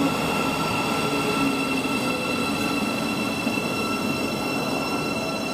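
East Midlands Railway Class 222 Meridian diesel unit running through the station: a steady rumble of wheels and running noise with a few steady whining tones over it, level throughout.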